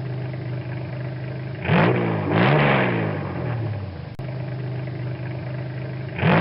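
Motorcycle engine running steadily at low revs. Other vehicles pass close by twice about two seconds in and once more near the end, each a brief rush that swells and falls away in pitch.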